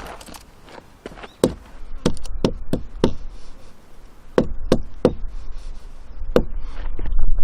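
A blade chopping firewood: about ten sharp, hard strikes into wood, coming in small irregular bursts.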